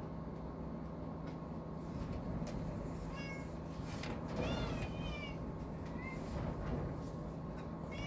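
Domestic cat meowing several short times, starting about three seconds in, over a steady electrical hum.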